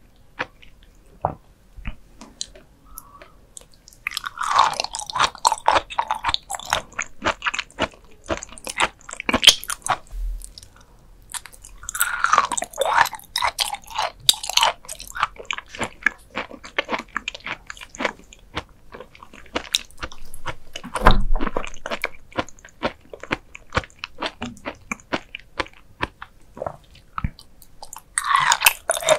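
Close-miked chewing of raw beef liver, which is crisp in the bite: rapid sharp wet clicks, with denser runs of biting about four, twelve and twenty-eight seconds in. A dull low thump comes about two-thirds of the way through.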